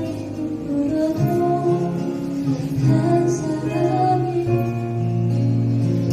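Live band music: a female voice singing a slow melody over acoustic guitar and keyboard.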